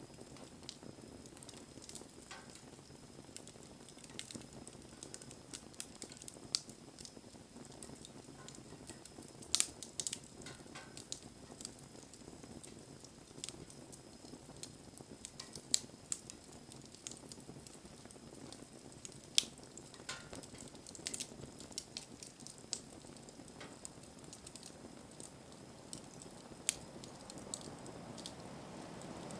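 Wood campfire burning with a soft steady hiss and scattered sharp crackles and pops, a handful of them louder than the rest.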